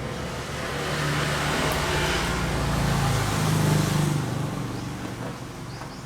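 A motor vehicle passing by: its engine and road noise grow louder, peak about three and a half seconds in, then fade away.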